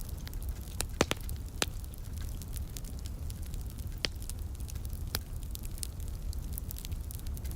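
Wood fire crackling in a fireplace: scattered sharp pops and snaps, the loudest about a second in, over a steady low rumble.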